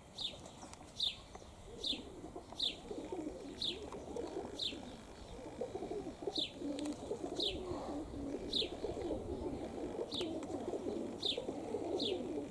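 Domestic pigeons cooing in a loft, a steady overlapping murmur, with a short high chirp falling in pitch repeating about once a second over it.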